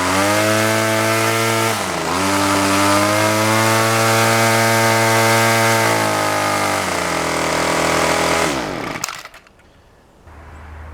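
Homelite 25cc two-stroke string trimmer engine running at speed, dipping and picking back up twice, then slowing and shutting off about nine seconds in. The seller says it will probably need its carburetor cleaned.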